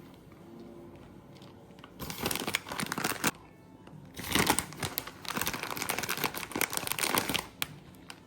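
Crinkling and rustling in two spells, one of about a second and one of about three seconds, like packaging being handled.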